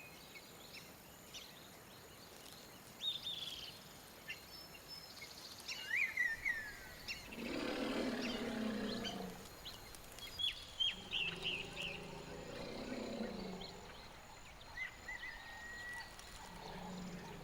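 Birds chirping and whistling throughout. About seven seconds in a large animal gives a low, drawn-out call lasting about two seconds and falling at the end, followed by a fainter, longer one.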